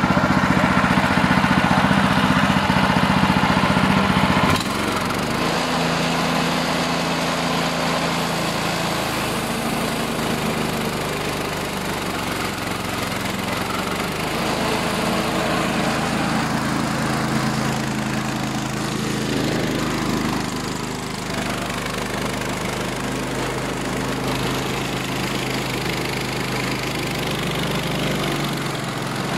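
Sawmill engine running steadily, louder for the first few seconds, then dropping to a lower, steady note about four and a half seconds in.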